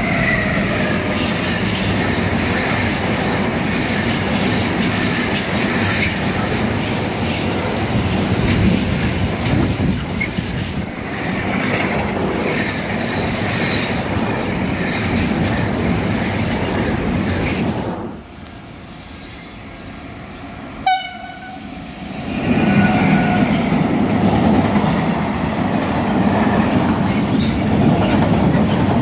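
A freight train hauled by a Siemens Vectron electric locomotive rolls past close by, its container wagons clattering steadily. The sound drops away sharply about 18 seconds in. A brief horn blast follows about three seconds later, then a second freight train of covered sliding-wall wagons rolls loudly past.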